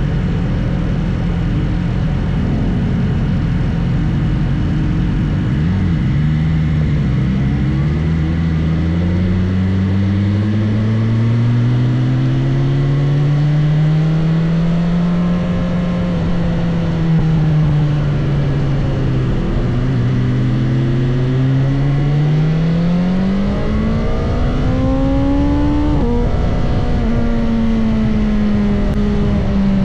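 Sport motorcycle engine running at track speed, its pitch climbing and falling several times as the throttle opens and closes, with a sudden drop in pitch late on.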